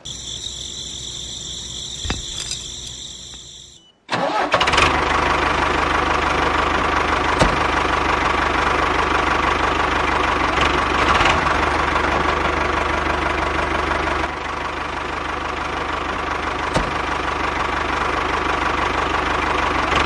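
A small engine, plausibly the mini tractor's, starts about four seconds in and then runs steadily. Before it, faint high steady tones fade away.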